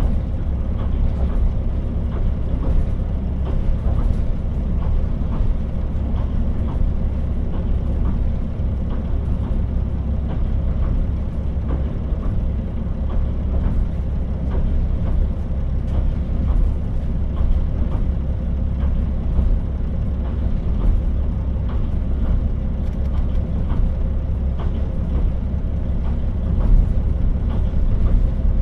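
KiHa 40 diesel railcar running along the line, heard from on board: a steady low rumble of engine and wheels on rail, with a faint steady whine and light clicking throughout.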